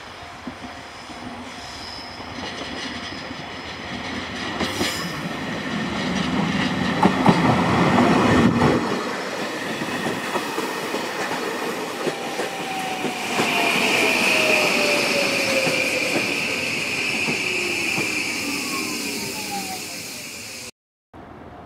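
Electric commuter train running into a station: wheels and body rumbling as it draws level, then a motor whine that falls steadily in pitch as it brakes, over a high brake squeal. The sound cuts off abruptly near the end.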